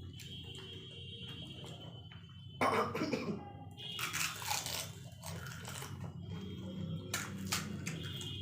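Golgappa being eaten fast: crisp puri shells crunched and chewed, with a loud sudden burst about two and a half seconds in and more around four and seven seconds in.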